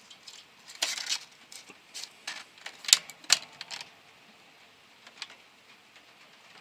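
Scattered light metallic clicks and short rattles from metal being handled, the sharpest pair about three seconds in, then quiet.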